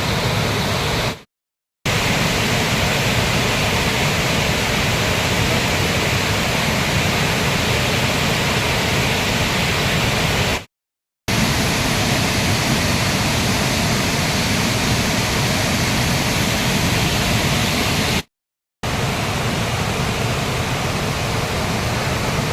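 Loud, steady rush of floodwater pouring and churning after days of heavy monsoon rain. The sound cuts out to silence for a moment three times, at edits between shots.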